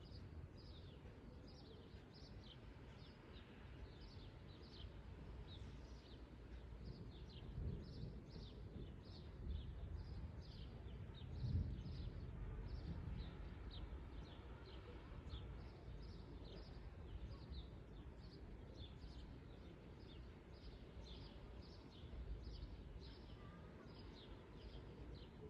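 A small bird chirping over and over, short high falling chirps at about two a second, faint and steady. Underneath is a low rumble that swells a few times near the middle.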